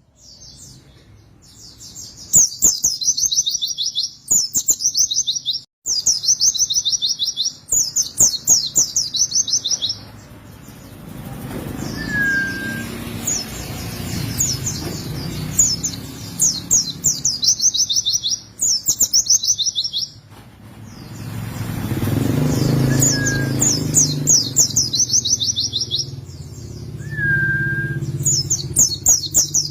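White-eye (pleci) singing: rapid, high trilled phrases about a second and a half long, repeated every couple of seconds, with a few short single whistles between them. A low background rumble swells and fades twice.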